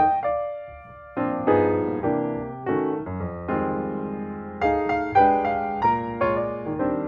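Background piano music: chords and melody notes struck and left to ring, with a short pause about a second in.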